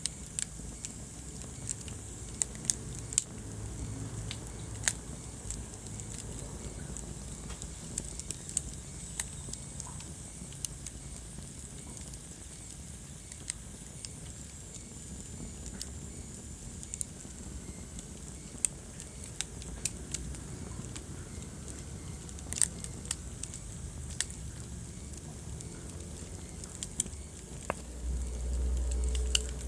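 Wood fire burning in a fireplace, crackling with irregular sharp pops over a steady low rumble. A louder low rumble swells up near the end.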